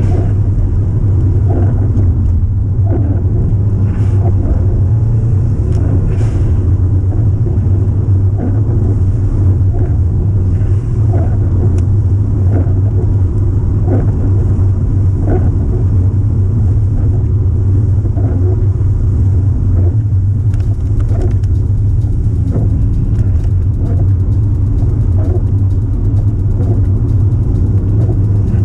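Subaru Impreza WRX's flat-four boxer engine and road noise drone steadily while the car is driven along at a constant pace, with frequent light knocks from the road.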